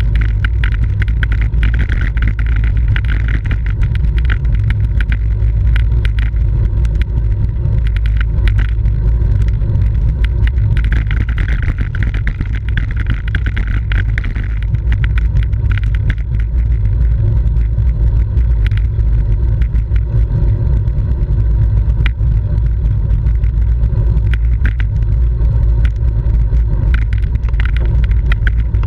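Steady wind rumble on the microphone of a camera riding along with a racing bicycle, over tyre and road noise and many scattered clicks and rattles from the bike.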